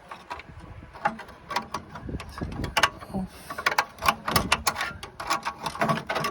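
Irregular metallic clicks, taps and rattles of an old bonnet-release wire and its fittings being worked loose by hand.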